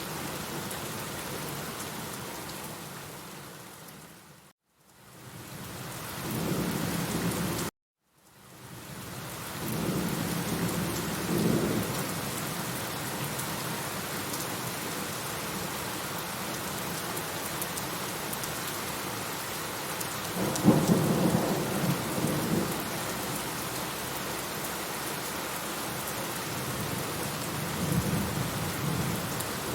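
Steady rain falling, with low rolls of thunder rumbling several times. The sound fades out to silence about four seconds in, then stops abruptly for a moment near eight seconds before the rain comes back.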